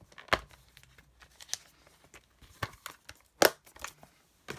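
Paper-craft handling at a desk: a few short sharp taps and light paper rustling as foam adhesive dimensionals are peeled from their backing sheet and pressed onto cardstock, the loudest tap about three and a half seconds in.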